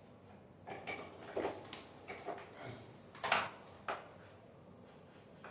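A series of about eight short, irregular knocks and clunks of hard objects being handled, the loudest a little past three seconds in.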